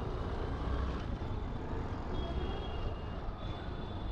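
Steady wind and road rumble of a moving motorcycle, picked up by a helmet-mounted external microphone. A faint high tone sounds briefly about two seconds in and again near the end.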